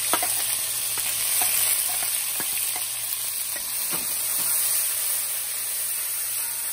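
Chopped onion and green seasoning sizzling in hot oil in a pot, with a metal spoon scraping and clicking against the pot now and then as it stirs.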